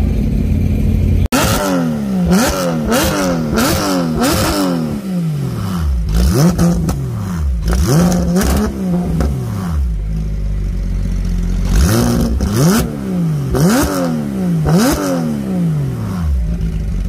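Car engine idling, then revved in two bursts of quick repeated blips, the pitch rising and dropping back each time, settling to idle between the bursts and after. Sharp pops come during the revving.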